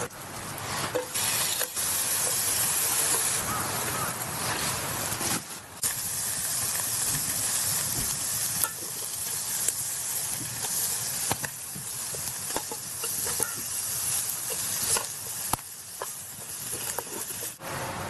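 Food sizzling in a frying pan while it is stirred, with a steady hiss and scattered clicks of the utensil against the pan.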